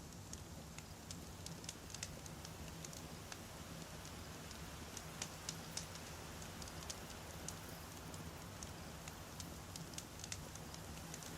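Wood campfire burning, with scattered sharp crackles and pops from the firewood over a steady low rumble.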